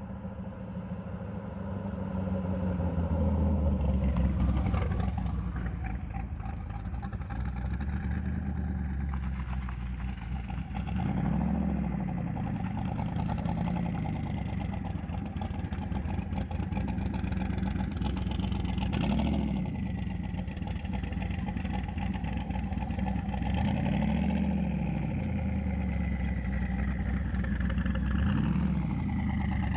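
The twin-turbo 5.3 LS V8 in an S10 pickup running steadily. Its pitch rises and falls briefly a few times as the throttle is blipped.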